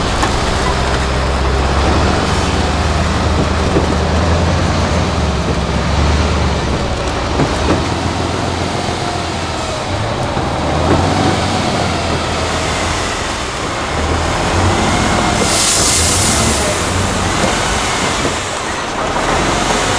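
8x8 Tatra truck's turbo diesel engine working hard off-road, with a heavy low rumble and revs that rise and fall as the throttle changes. About three-quarters of the way through there is a short burst of hiss.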